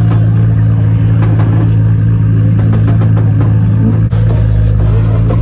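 Toyota Supra MK4's turbocharged 2JZ straight-six idling loudly through its large exhaust, a steady low drone with a brief dip about four seconds in.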